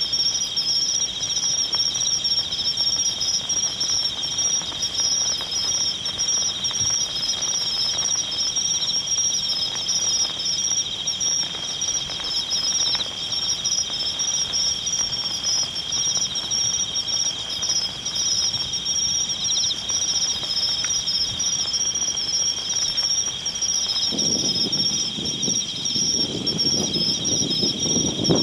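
Insects singing in a steady, high-pitched chorus, a dense fast trilling at two pitches. A low rustling noise joins in near the end.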